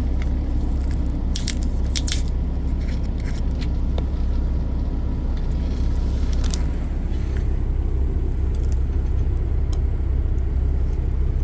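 Steady low rumble of a car's cabin, with scattered small clicks and crinkles as a ginseng drink is handled, opened and sipped.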